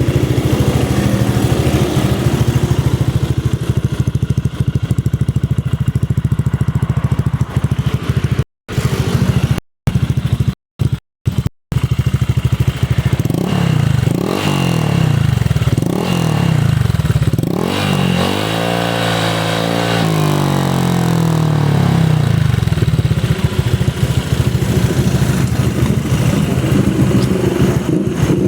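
Honda Click scooter's single-cylinder engine breathing through an aftermarket Etech exhaust, idling and then blipped several times in the middle, with a longer rev that holds and falls back to idle. The sound cuts out briefly a few times just before the revs.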